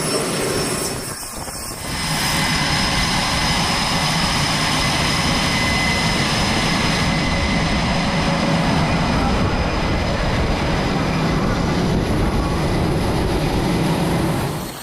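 Aircraft jet engines running loudly and steadily on a carrier flight deck, with a high whine over a broad rush. The sound dips briefly about a second in.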